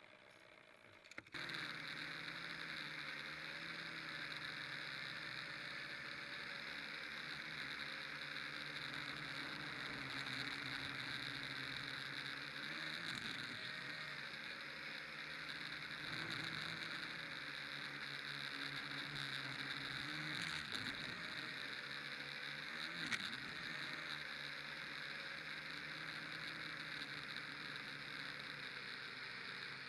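Motor of a radio-controlled model aircraft in flight, a steady hum with a higher whine that wavers up and down in pitch, starting suddenly about a second in.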